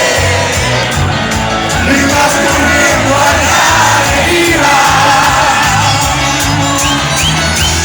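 Live cuarteto music played loud over a steady bass beat, with a crowd singing and shouting along.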